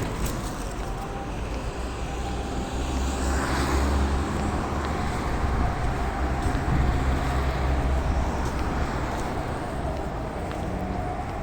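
Road traffic rumble, a vehicle passing with a low rumble that swells for several seconds and then eases.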